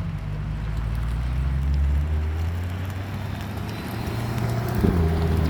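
Corvette C8 prototype's mid-mounted V8 idling with a steady low hum, with a short sharp rise a little before the end.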